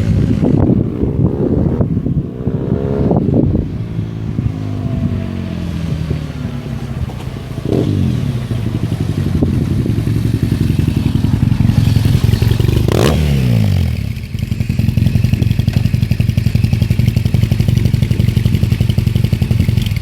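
Yamaha XTZ750 Super Ténéré's parallel-twin engine running through a DominatoR aftermarket exhaust, with the db-killer baffle removed. It is blipped several times, each rev rising quickly and falling back. For the last several seconds it settles into a steady, evenly pulsing idle.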